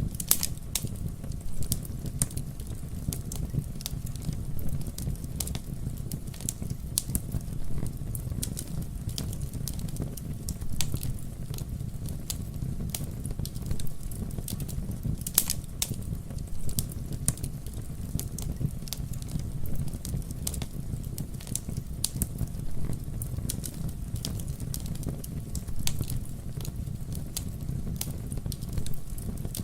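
Campfire burning with a steady low rumble and frequent sharp crackles and pops, one louder pop about halfway through.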